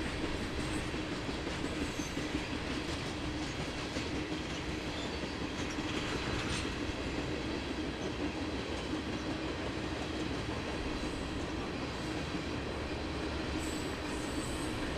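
Train rolling along the rails: a steady rumble of wheels on track, with a brief higher sound about six seconds in.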